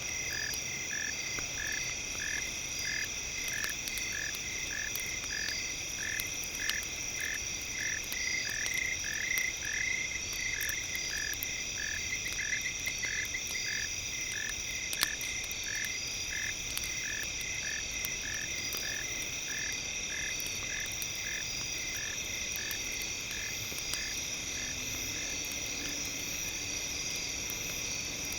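A frog croaking in a regular series, about two calls a second, fading out near the end, over a steady high-pitched drone, with a few sharp clicks.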